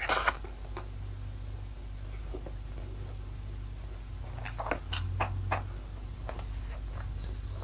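Close-up eating sounds of a person taking a handful of rice and pork into her mouth, then chewing with wet clicks and smacks that cluster about four to five and a half seconds in. A steady low hum runs underneath.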